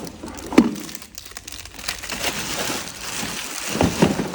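Packaging crinkling and rustling as the parts of a kids' ride-on toy jeep are unpacked, with several knocks of parts being handled, the sharpest about half a second in.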